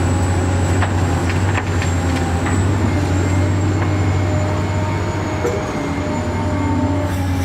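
A steady, engine-like motor drone with a thin high whine over it, and a few light clicks in the first couple of seconds.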